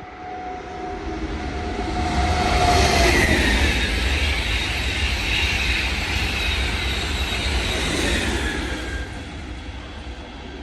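A train passing by: it grows louder over the first two or three seconds, stays loud for about six seconds, and fades away near the end.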